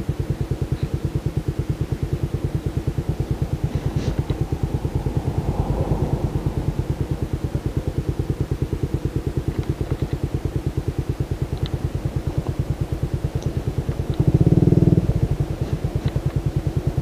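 Motorcycle engine idling with an even, rapid putter. About fourteen seconds in, a louder steady tone lasts about a second.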